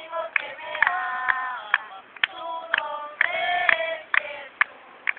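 A group of voices singing a Spanish praise song together, holding long notes, with sharp beats keeping time about twice a second.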